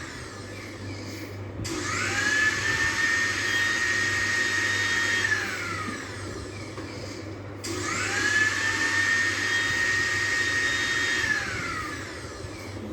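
Mixer grinder's electric motor switched on twice: each time it whines up to speed, runs steadily for a few seconds, then winds down with a falling pitch. The tail of an earlier run dies away at the very beginning.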